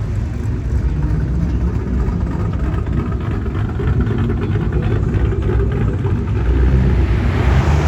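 Low, steady engine rumble of classic cars cruising past, getting louder near the end as a car comes close.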